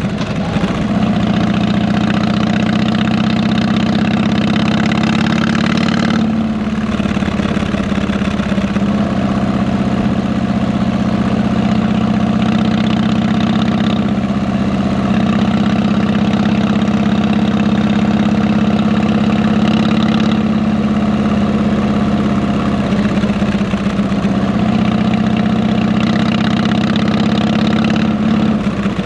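Harley-Davidson V-twin motorcycle engine running steadily through fishtail exhaust pipes, with brief changes in its note about six seconds in and again around twenty seconds.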